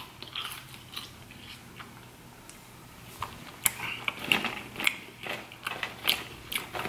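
Close-miked chewing of McDonald's French fries: quiet at first, then short sharp mouth clicks coming more often from about three seconds in.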